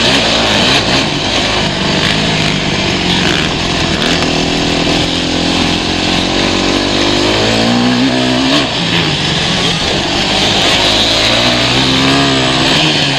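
Motocross bike engines running loud and revving, their pitch climbing as they accelerate, with one long climb peaking about eight seconds in and another near the end.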